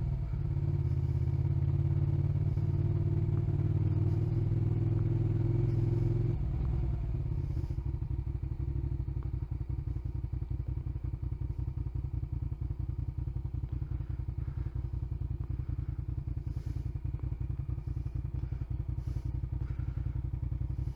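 Motorcycle engine running, then dropping to a steady, evenly pulsing idle about six seconds in as the bike comes to a stop.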